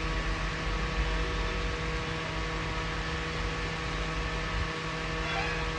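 Homemade table fan driven by a 775 DC motor running steadily at low voltage: an even rush of air from the blades with a steady motor hum.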